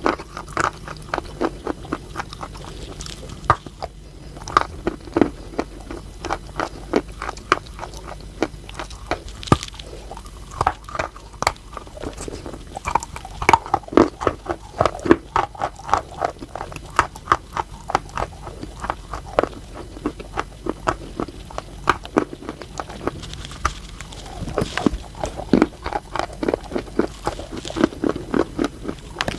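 Chalk being bitten and chewed close to the microphone: a dense, irregular run of sharp crunching cracks, several a second.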